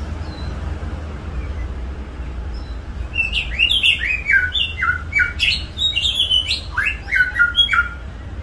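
A songbird singing a quick run of clear whistled notes that mostly slur downward, starting about three seconds in and lasting about five seconds, over a steady low hum and hiss.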